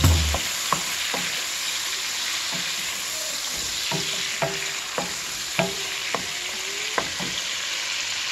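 Shrimp sizzling in hot oil in a frying pan, a steady hiss, while a wooden spatula stirs them and knocks lightly against the pan about ten times.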